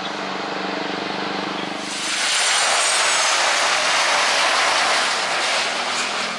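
Jet airliner landing: its engine noise swells suddenly about two seconds in to a loud, steady roar with a high whine falling in pitch as it passes.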